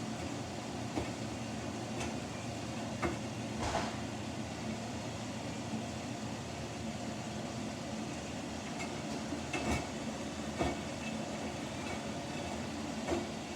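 Samsung washing machine running: a steady mechanical hum and rumble, with a few short knocks every few seconds.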